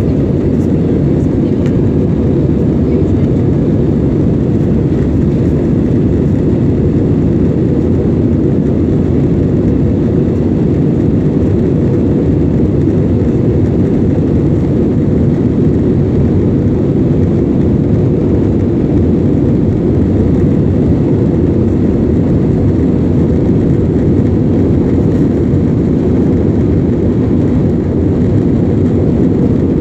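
Steady low rumble of an AirAsia Airbus airliner's jet engines and airflow, heard from inside the passenger cabin.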